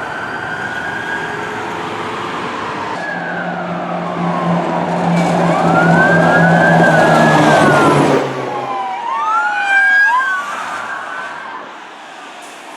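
Emergency vehicle sirens wailing, several sweeps overlapping as they rise and fall, loudest a little past halfway and fading near the end. A deep steady tone sounds under them from about three seconds in and cuts off after about eight seconds.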